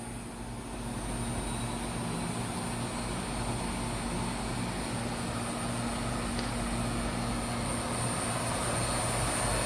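The 20-inch grinding wheel of a Supertec G60A-80 CNC angle head cylindrical grinder, driven by its 10-horsepower wheel motor, spinning up to speed: a steady hum with a high whine that grows slowly louder. The spindle bearings are quiet and the wheel runs smoothly.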